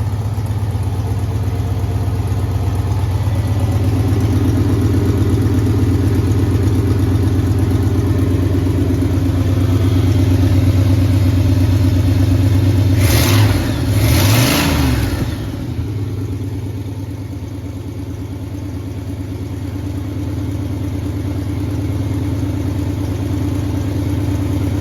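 Freshly rebuilt 1968 Cadillac 472 cubic-inch V8 idling smoothly. About halfway through it is revved twice in quick succession, rising and falling in pitch, then it settles back to a slightly quieter idle.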